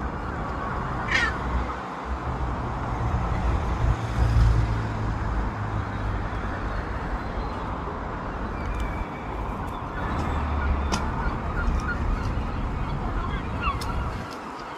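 Seagulls calling several times, short harsh cries, one sharp rising call about a second in. Under them runs a steady low rumble of background noise.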